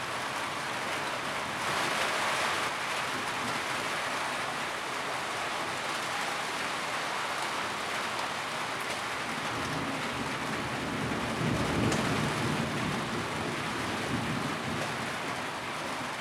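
Steady rain falling on a tin roof, swelling briefly about two seconds in. A low rumble comes in about twelve seconds in.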